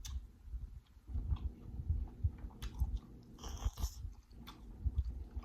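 Close-miked chewing and biting of seafood boil food (lobster, shrimp and sides in a butter sauce), with irregular soft thuds and clicks and a short hissing sound about three and a half seconds in.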